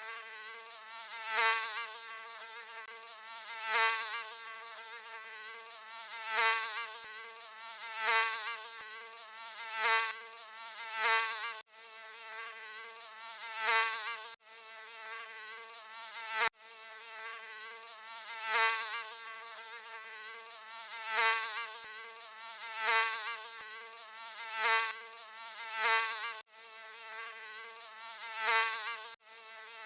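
Mosquito buzzing: a steady, thin, high whine with many overtones, swelling louder about every two seconds as if flying close past the ear. It breaks off for an instant a few times, where the recording loops.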